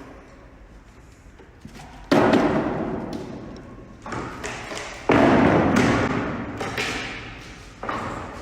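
Four loud thuds, each dying away slowly over a second or more, the first about two seconds in and the last near the end.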